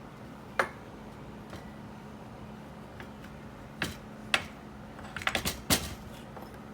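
Sharp clicks and clinks of small hard parts or hand tools being handled and set down: a few single knocks, then a quick cluster of them near the end. A steady low hum runs underneath.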